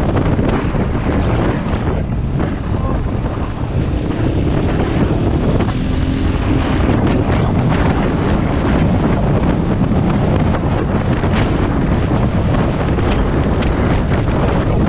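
Heavy wind buffeting on the microphone while riding a motorcycle at speed, with the engine of the KTM 500 EXC faintly audible underneath.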